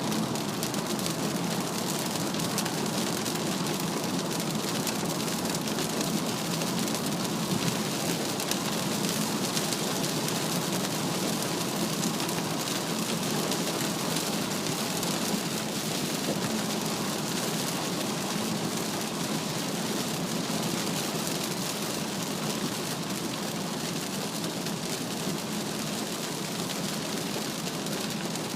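Heavy rain on a moving car and tyres hissing through water on an expressway, heard from inside the cabin of a Mazda CX-3: a loud, steady, dense hiss that comes in abruptly at the start.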